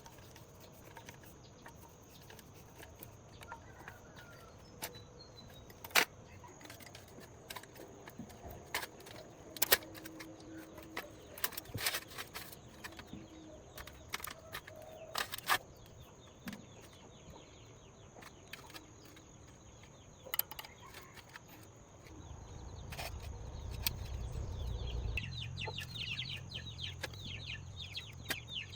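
Scattered sharp clicks and knocks over a steady high whine. Near the end a low rumble comes up, and fowl cluck in quick repeated calls.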